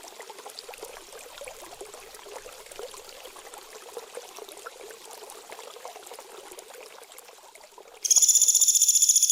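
Steady trickling, flowing water, then about eight seconds in an abrupt cut to a loud, high, rapidly pulsing trill of a small songbird.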